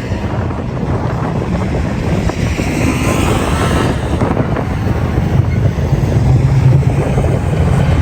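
Side-by-side UTV engine running under heavy wind buffeting the microphone, with a steady low drone that grows stronger about halfway through.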